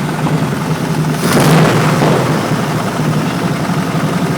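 Truck engine idling on its first run after sitting ten years, with a single sharp backfire about a second in that dies away over half a second; it backfires a lot.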